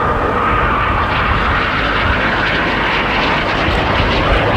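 Aermacchi MB-339 jet trainer flying a solo aerobatic display, its engine a steady loud roar with a faint whine early on.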